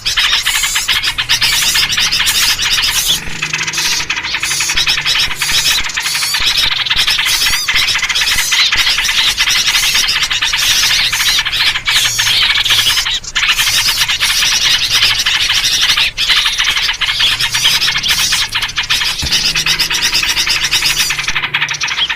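Dense, unbroken chatter of many small birds calling at once, a bird-lure recording of a noisy mixed flock built around yellow-vented bulbul (trucuk) calls.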